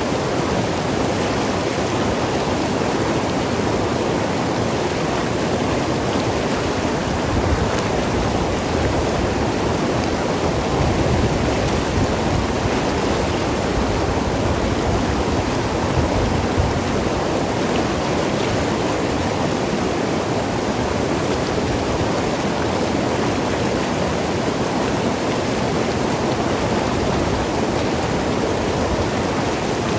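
Mountain river rushing and gurgling over rocks, a steady dense water noise.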